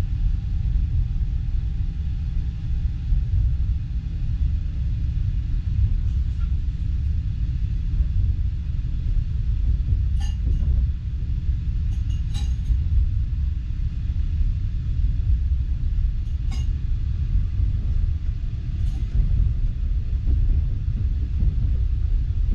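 Passenger train carriage rolling along, heard from inside: a steady low rumble of wheels on rail, with a few sharp clinks in the middle and latter part.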